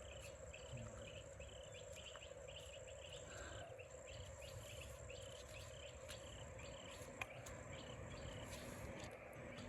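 Crickets chirping faintly at an even pace of about two to three chirps a second over a steady low hum, with a single small click about seven seconds in.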